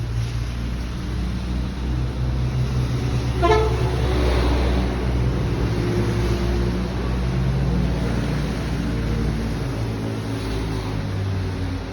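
Steady low vehicle rumble with horn toots, one brief sharp tone about three and a half seconds in.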